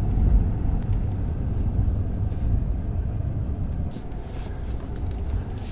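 A car on the move: a steady low rumble of engine and road noise, easing slightly, with a few faint clicks.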